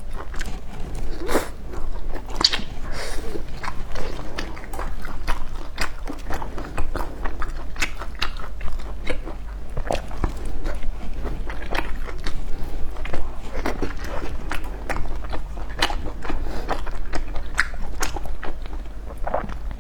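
Crunchy biting and chewing of deep-fried skewered food, a steady run of crisp crackles with an occasional louder bite.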